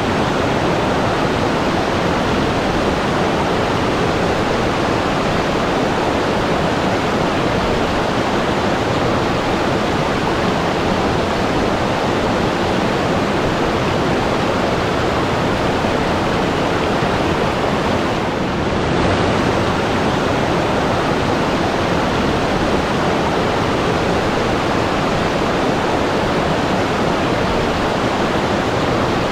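Steady rushing water, an even hiss with no separate splashes or tones; the level dips briefly about two-thirds of the way through.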